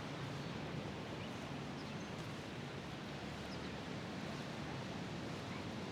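Steady outdoor ambience: an even, soft hiss with a few faint, brief bird chirps.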